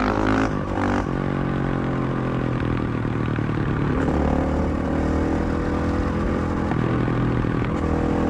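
KTM 500 EXC-F supermoto's single-cylinder four-stroke engine running, its revs shifting about a second in and rising again around four seconds in.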